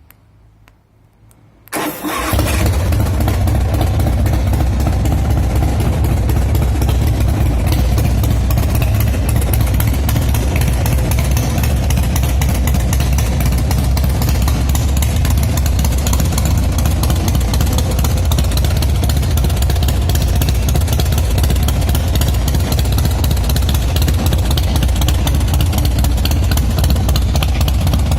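A 2006 Big Dog Ridgeback chopper's 117 cubic-inch S&S V-twin engine starts about two seconds in and then runs steadily and loudly.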